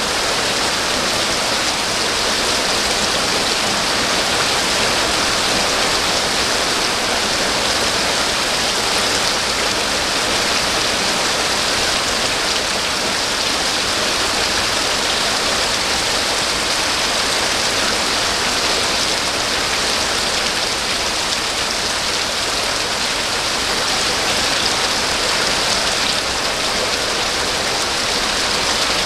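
Steady rain falling, an even, continuous hiss that does not let up or change.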